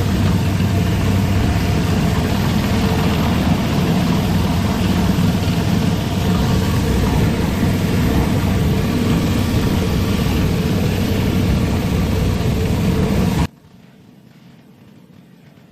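Pressure washer running steadily, a low engine-like hum under a hiss of spraying water, which cuts off abruptly about thirteen seconds in.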